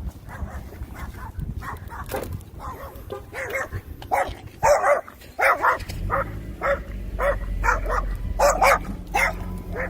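A dog barking repeatedly in short, quick barks that come faster and louder from about three seconds in.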